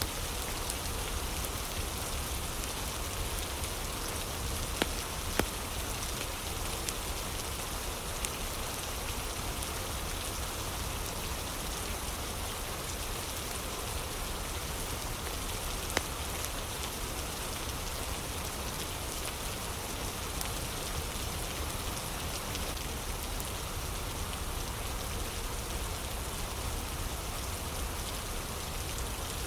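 Steady rain with an occasional sharp crackle or pop from a fire, a few of them, the clearest about five seconds in and again near the middle.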